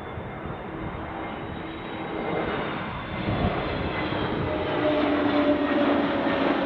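Airliner's engines on landing approach, growing louder as it nears, with a few whining tones sliding slowly down in pitch.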